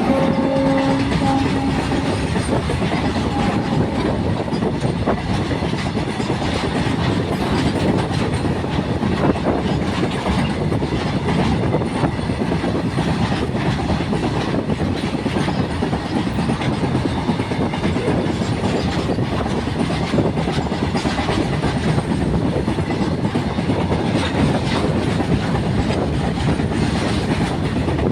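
Loaded BOXN coal wagons of a freight train rolling past, a steady heavy rumble with the clatter of wheels over rail joints. A horn tone dies away in the first couple of seconds.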